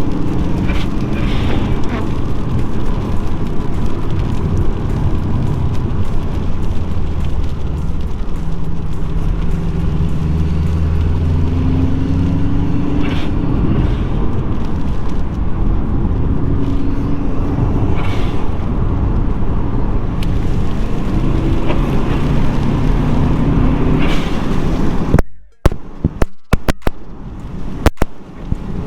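Subaru Impreza WRX's turbocharged flat-four engine pulling hard, its pitch rising and falling again and again as it accelerates through the gears. Near the end the sound cuts out abruptly several times.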